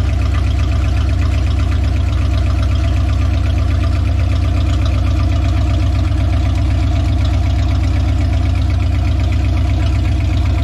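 Freshly swapped V8 engine in a 1969 Plymouth Valiant idling steadily on its first run, with no throttle.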